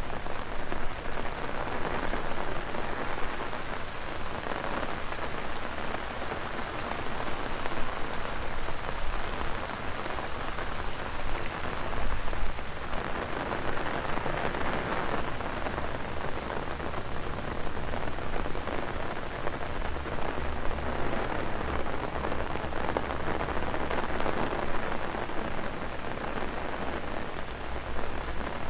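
Heavy rain pattering on an umbrella, with a steady high-pitched drone of cicadas.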